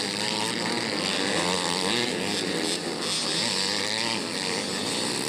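Several motocross bike engines running and revving together, their pitch wavering up and down.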